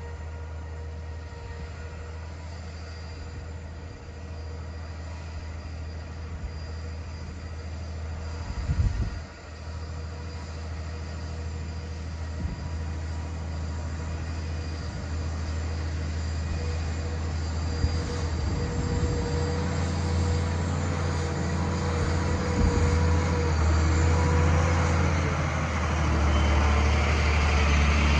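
John Deere 7330R tractor's diesel engine running steadily under load while pulling a plough. A short knock comes about nine seconds in, and the sound grows gradually louder with more hiss toward the end.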